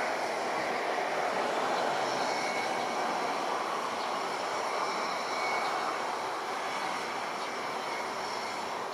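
Jet engines of an Embraer 175 regional airliner landing: a steady rushing roar with a faint high whine, slowly fading.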